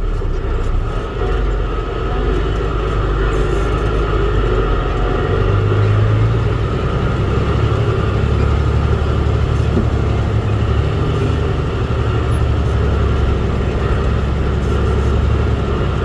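Dump truck engine running under way, heard from inside the cab along with road noise: a steady low rumble whose pitch shifts about a third of the way through.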